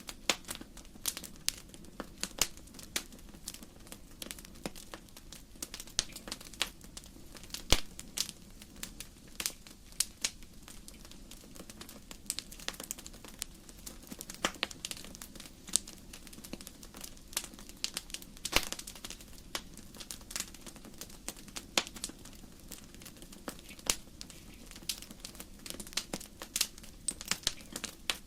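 Firewood burning in a fireplace, crackling with irregular sharp pops and snaps, several a second, over a faint steady low rumble.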